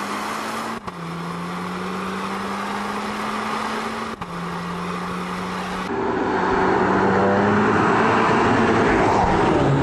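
Audi TTS 2.0-litre four-cylinder petrol engine running steadily while the car drives. Its note jumps abruptly in pitch and level a few times and is loudest over the last few seconds.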